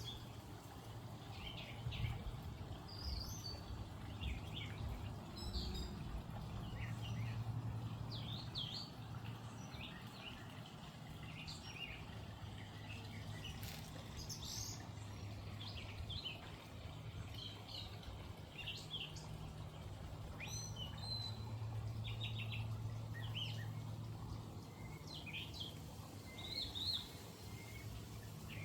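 A songbird singing in many short chirps and whistles, over a steady low rumble that swells and fades every few seconds.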